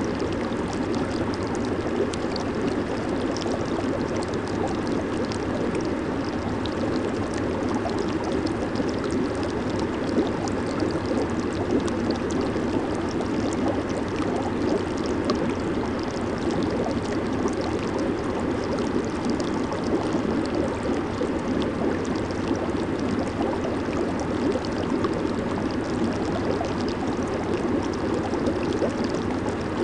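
Jacuzzi jets running: a steady churning rush of bubbling, swirling water with fine fizzing crackle on top.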